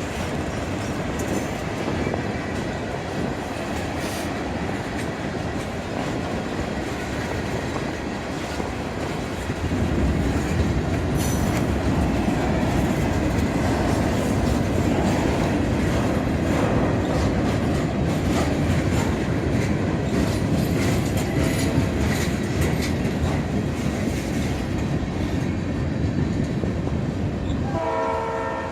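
Freight cars (rock hoppers, ballast cars and box cars) rolling past on the rail, a steady rumble of wheels that grows louder about ten seconds in. A short pitched tone sounds near the end.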